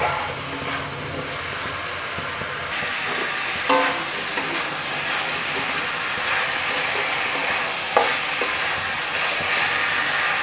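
Cauliflower florets and potato pieces sizzling in oil and spice paste in an aluminium kadai while being stirred and scraped with a metal spatula, with a couple of sharp knocks of the spatula on the pan, about four and eight seconds in. This is the kosha stage: the vegetables being fried down with the masala until the oil separates.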